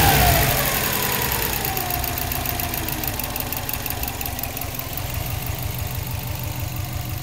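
Subaru Impreza WRX (bugeye) turbocharged flat-four engine dropping back to idle after a rev, then idling steadily. A rapid, regular ticking runs over the idle; this is the unexplained tick the owner is asking for help with.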